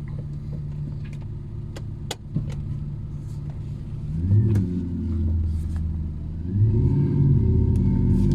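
Opel Astra exhaust with the engine idling steadily, then revved about four seconds in and revved again near the end, the second rev held higher.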